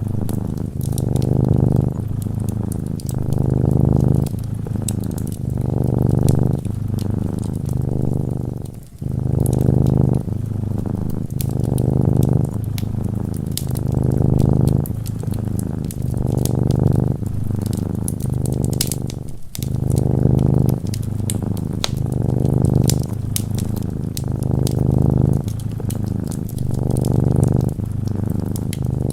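A cat purring close up in an even rhythm, each breath in and out making one swell of the low rumble about every second, with two short breaks. Over it runs the soft crackle of a wood fire, with frequent small pops.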